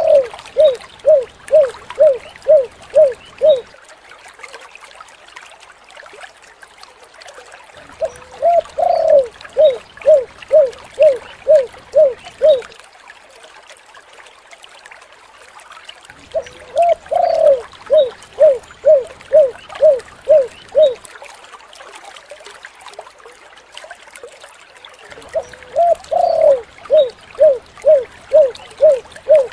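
Spotted dove (tekukur) cooing: a long phrase of short, evenly spaced coos at one pitch, the 'kuk 7' call type. The phrase comes four times, about every eight and a half seconds.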